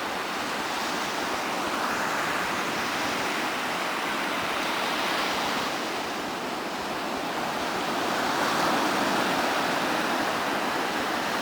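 Ocean surf washing onto a beach: a steady rushing noise that swells and eases every few seconds.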